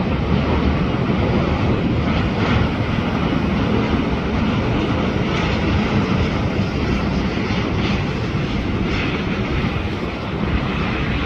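Airbus A350-900 jetliner's Rolls-Royce Trent XWB engines as it flies past on arrival: a steady, continuous jet rumble and hiss.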